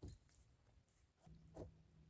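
Near silence broken by two faint knocks, one at the start and one about a second and a half in.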